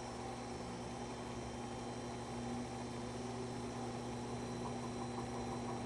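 Vintage McGraw Edison Zero box fan's motor starting on its low speed: a steady electrical hum and buzz, growing slightly louder as the fan slowly comes up to speed. The owner says the fan has always had this buzz.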